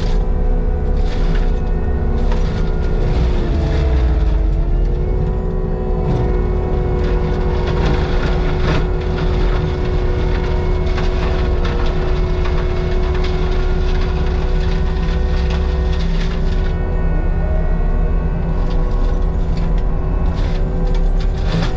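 Heavy diesel land-clearing machinery running under load. There is a steady low rumble and a whine whose pitch sags and recovers about four seconds in, with many sharp knocks and cracks over it.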